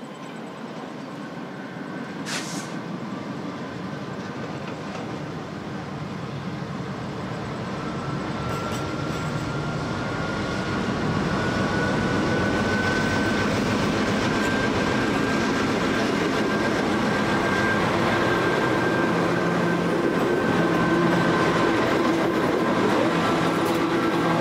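Diesel-electric freight locomotives of an intermodal container train pulling out. The engine drone grows louder until the locomotives pass close by, with a thin whine that rises slightly in pitch, then the container wagons rumble and clatter past.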